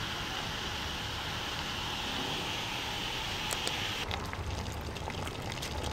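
Chicken pieces cooking in a pot of curry, bubbling and sizzling as the meat gives off its juices: a steady hiss, turning to scattered crackling about two-thirds of the way through.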